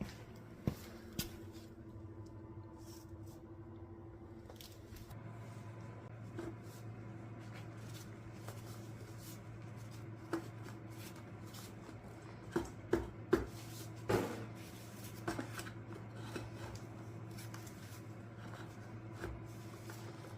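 Hand tools and engine parts being handled during a teardown: scattered light clicks and clinks, a quick cluster of them about two-thirds of the way through, over a steady low hum.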